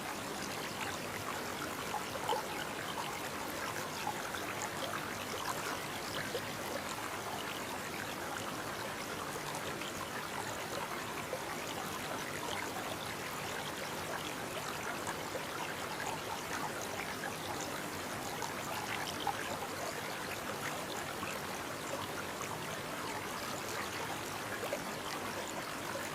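Small brook babbling steadily over stones, with many small splashes and gurgles and now and then a slightly louder splash.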